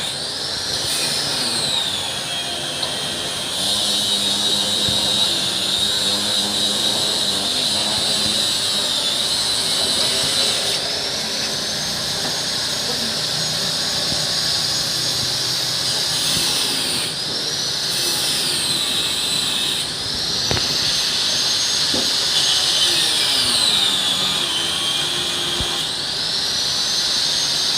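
Small bamboo-processing machine for cutting bird-cage spokes running with a high motor whine that sags in pitch and climbs back several times, as it comes under load and is released.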